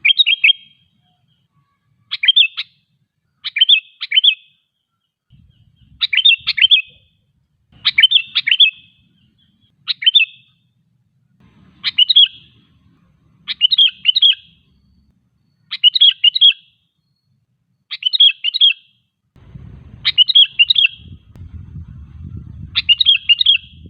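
Sooty-headed bulbul (kutilang) singing, a short bubbly phrase of a few quick notes repeated about every two seconds.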